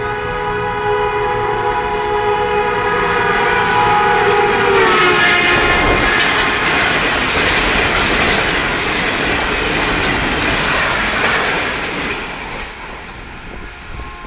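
Pakistan Railways ZCU-20 diesel-electric locomotive sounding its horn in one long blast as it approaches at speed; the pitch drops as it passes about five seconds in. Then comes the rush and wheel clatter of the express coaches going by, fading near the end as the train leaves.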